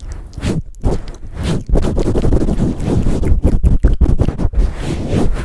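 Hands rubbing, cupping and swirling over an ASMR microphone, close-up: dense scratchy rustling with heavy low rumble and quick thumps in an uneven rhythm.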